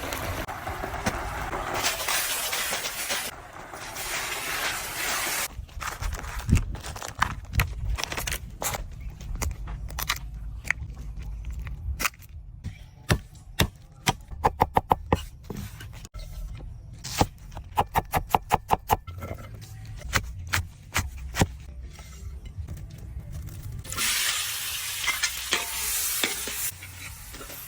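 Small crabs frying in hot oil with a steady sizzle. This gives way to a long run of sharp crackles, clicks and crunches, some in quick bursts, and then the sizzle returns near the end.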